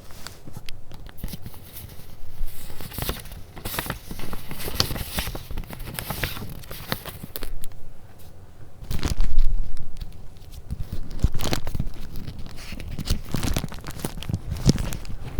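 Paper being handled and shuffled: crinkling and rustling with soft taps and clicks. The loudest, heavier rustle comes about nine seconds in.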